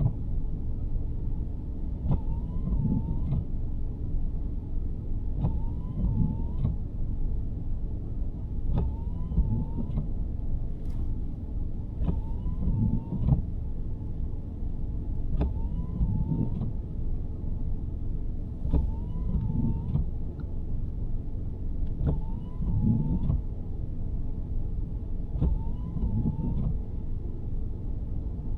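Windshield wipers of a 2023 Nissan Sentra on intermittent, one sweep about every three and a half seconds, each starting and ending with a click and carrying a short squeak of the blade. Under them runs a steady low rumble of the car on the road, heard from inside the cabin.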